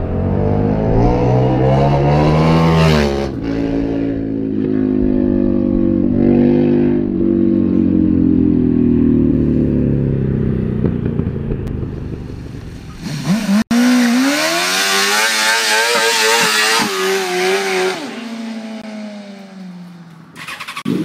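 A sport-bike engine revving hard: its pitch climbs for a few seconds, then eases down slowly. After a sudden cut about two-thirds of the way in, a second sport bike revs with a wavering pitch, then falls away.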